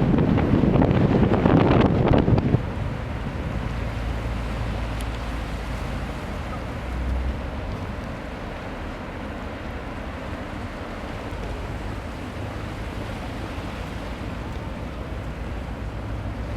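Wind buffeting the microphone for the first couple of seconds, then a steady low drone of a ship's engine over light wind and water noise.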